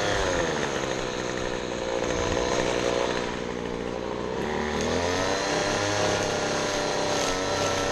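Small gasoline engine of a handheld lawn tool running. Its pitch drops as the throttle is eased off just after the start, then climbs again as the throttle opens about five seconds in.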